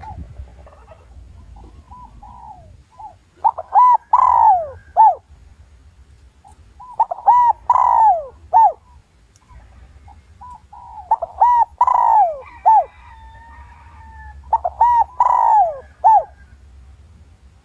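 Spotted dove cooing: a short phrase of several coos, repeated four times about every four seconds with quiet gaps between. It is the decoy call used to provoke male doves into answering and fighting.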